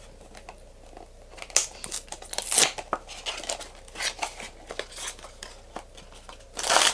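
Plastic wrapping being torn and peeled off a small cardboard box: irregular crinkling with sharp rips, loudest about a second and a half in, again a second later, and just before the end.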